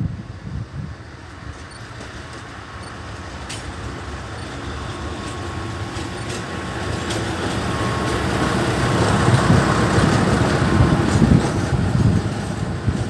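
6Dg diesel shunting locomotive running light engine, with no wagons, as it approaches and passes. The engine and wheel-on-rail noise grow steadily louder, peak about ten seconds in, then ease off slightly, with a faint steady whine in the middle.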